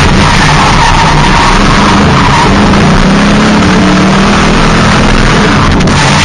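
Ford Mustang drift car running hard in a drift, its engine note wavering up and down under heavy tyre squeal and rushing noise.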